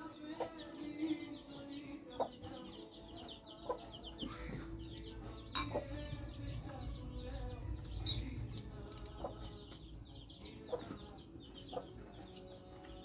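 Silver Laced Wyandotte chicks peeping in quick high chirps while a hen clucks low as they feed. Sharp taps come every second or two.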